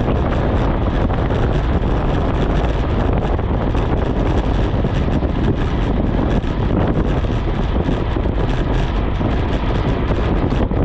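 Wind buffeting the microphone during a fast bicycle descent: a loud, steady rush of noise, heaviest in the low end.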